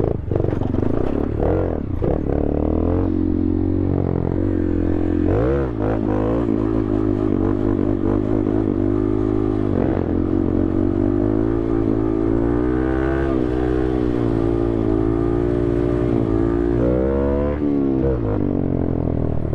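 Honda Grom's small single-cylinder engine running as the bike is ridden, its pitch rising and falling with throttle and gear changes, with a sharp drop and surge about five seconds in.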